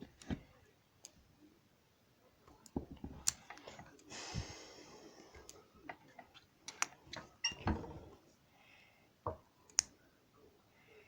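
Plastic LEGO pieces being handled, with scattered irregular clicks and knocks and a short rustle about four seconds in.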